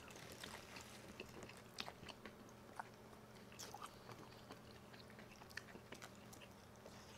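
Faint chewing and biting on chicken wings: soft, scattered mouth clicks and smacks over a low, steady room hum.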